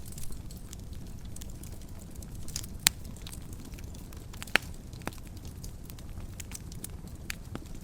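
Wood fire burning in a fireplace: a steady low hiss of flames with scattered crackles and two sharper pops, about three seconds in and again near the middle.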